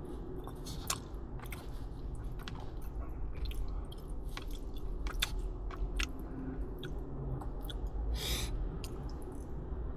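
Close-up chewing of soft, gooey takoyaki: irregular wet mouth clicks and smacks, with a short hissing burst a little past eight seconds, over a steady low background rumble.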